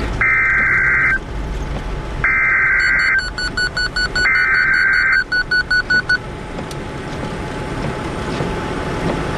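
NOAA Weather Radio sending its SAME digital alert header: three bursts of warbling data tones, each about a second long, some two seconds apart. Rapid short beeps follow the second and third bursts. This is the coded start of a severe weather warning broadcast. Vehicle road noise hums underneath.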